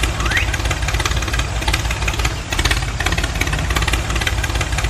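Small engine of a mini tractor running steadily, with a fast low chugging beat and a light rattling clatter over it.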